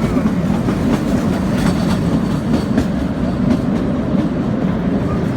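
Passenger train running on the rails, a steady rumble with a few faint wheel clicks over the rail joints.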